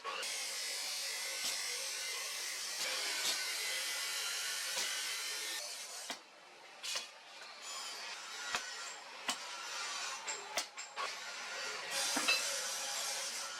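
Tool work on a steel leaf-spring blank: a steady rasping, grinding noise for about six seconds, then a brief lull and a run of scattered sharp knocks and clicks with short bursts of rasping.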